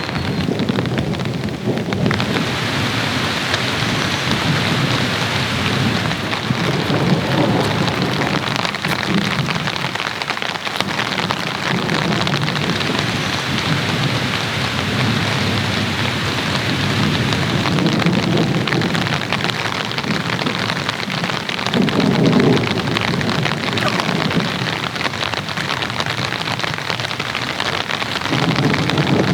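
Heavy rain falling steadily, with low rumbles of thunder swelling and fading several times.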